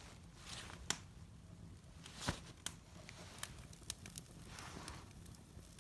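Wood fire burning faintly in a fireplace, with scattered sharp pops and cracks at irregular intervals over a soft hiss.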